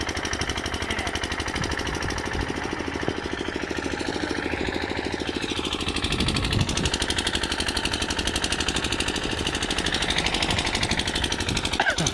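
An engine running steadily with a rapid, even pulse, a little louder from about six seconds in.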